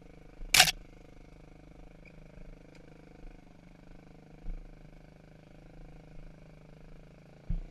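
Dirt bike engine running low and steady, with a single loud, sharp burst of noise about half a second in and low thumps twice later on.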